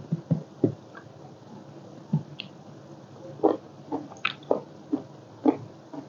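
Close-up chewing and wet mouth smacks of a person eating spicy papaya salad with seafood. There are about ten short, irregular smacks and chews.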